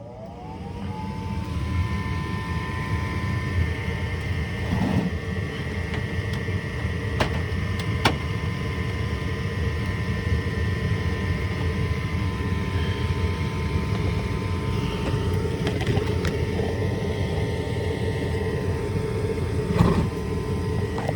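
HVAC unit's motor spinning up, with a rising whine over the first second or two, then running steadily with a hum and a high whine as the system starts in heating mode after the repair.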